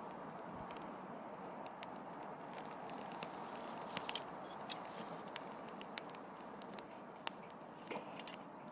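Wood campfire burning: a steady rush of flame with irregular sharp crackles and pops from the burning wood.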